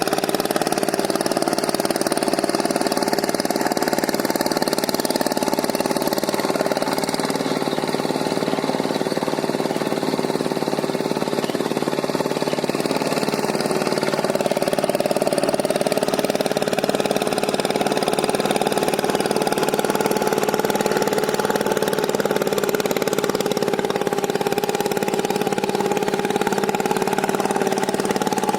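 Walk-behind power tiller's engine running steadily with its rotavator.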